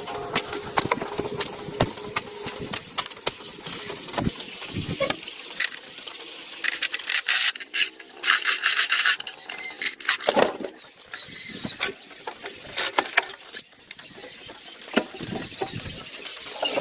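Hand work with tools: a string of sharp clicks and knocks, with a spell of harsh scraping noise about halfway through.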